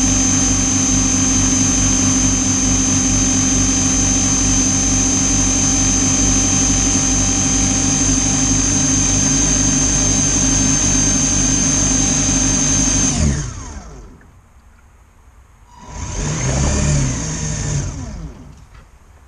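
RC model tug's drive motor running steadily with a high whine. About thirteen seconds in it winds down. A few seconds later it runs up briefly and winds down again.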